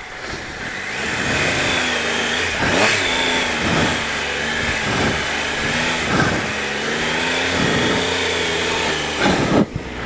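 Triumph Explorer 1215cc three-cylinder engine revving up and falling back over and over as the bike struggles for grip climbing a wet, slippery track on road tyres. A couple of sudden louder bursts come near the end.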